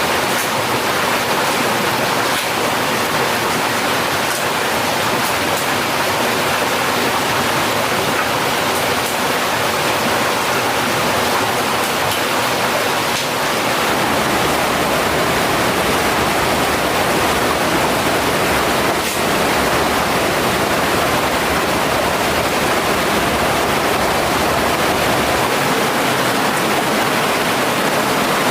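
Mountain stream water rushing steadily over rocks, a constant loud wash of noise.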